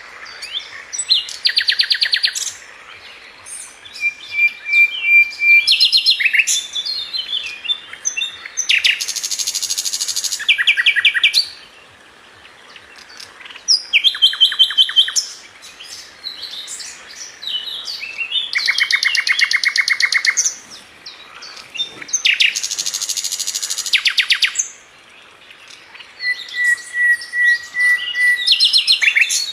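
Flycatcher sold as 'Sikatan London' singing: varied phrases of fast trills and rapid strings of high notes, with a thin held whistle twice, once a few seconds in and again near the end, broken by short pauses.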